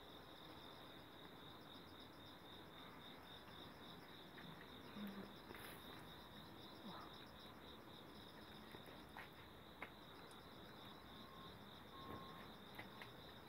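Faint insect chirping: a steady, rapidly pulsing high trill, with a few soft clicks and rustles as grapes are picked from the vine.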